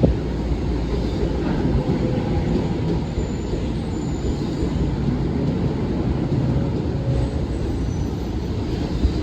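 Long Island Rail Road commuter train running through the station, a steady low rumble of wheels on rail.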